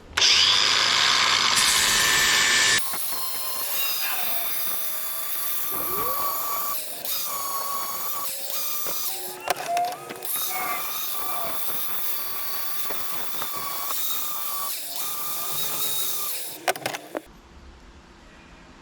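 Angle grinder with a flap disc sharpening a steel lawnmower blade held in a vise. It grinds loudly for the first few seconds, then runs as a steady whine whose pitch sags now and then as the disc is pressed onto the edge, and it stops about 17 seconds in.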